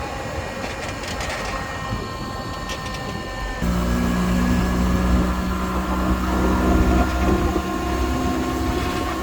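Car driving: steady road and engine noise heard from inside the cabin. About a third of the way in it changes abruptly to a louder, steady low engine drone.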